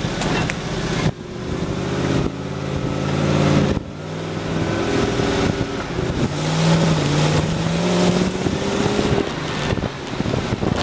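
Off-road 4x4 engine pulling along a rough dirt track. Its note rises and falls with the throttle and drops away abruptly a few times, over a steady rattle of the body and a rush of wind noise.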